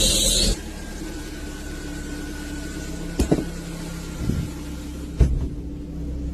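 A loud hiss stops abruptly about half a second in. After it, a vehicle engine runs with a steady hum, broken by two sharp knocks about two seconds apart.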